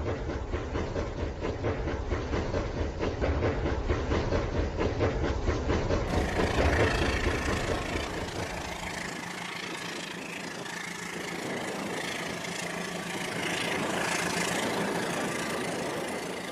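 Toy train running on its track: a dense, rapid mechanical clatter from its small motor and wheels, turning to a lighter, hissier running sound about six seconds in.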